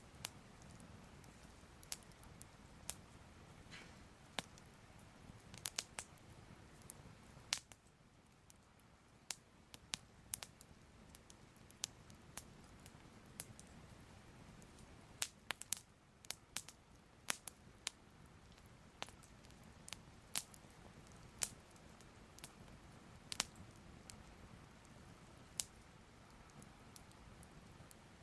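Soft fire crackling: irregular sharp pops and crackles, roughly one or two a second, over a faint steady hiss.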